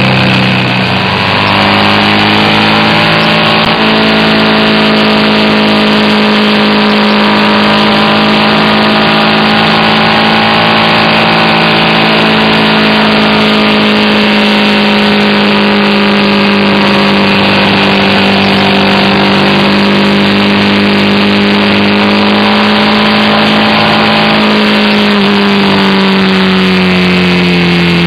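BMW R1200RT's air/oil-cooled boxer-twin engine running at road speed over a haze of wind and road noise. Its pitch rises about a second in, holds steady for a long stretch, then falls away over the last few seconds as the bike slows.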